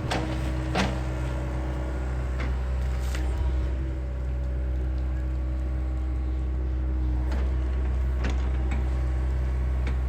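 John Deere excavator's diesel engine running steadily, with scattered knocks and cracks as it works.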